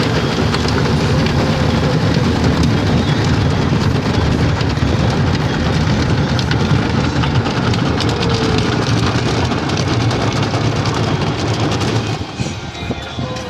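Car wash spraying water over a car: a steady hiss and patter of water on the body with a low rumble of machinery underneath, dropping away about twelve seconds in.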